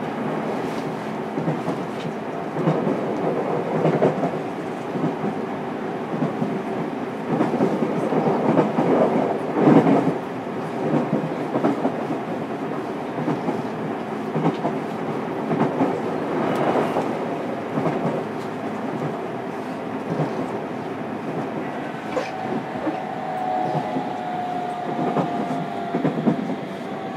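Running sound inside a JR Kyushu 303 series electric train's motor car at speed: a steady rumble of wheels on rail with irregular clacks over rail joints. About 22 s in, a thin tone sounds for a few seconds and falls slightly in pitch.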